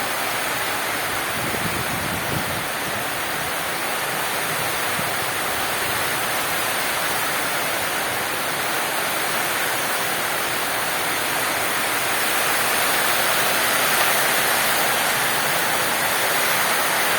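Heavy tropical-storm rain pouring steadily, a dense even hiss that swells a little in the second half.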